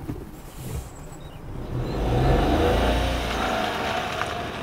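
Toyota Aygo X's 1.0-litre three-cylinder engine revving as the car pulls away, loudest about two seconds in, then fading as it drives off.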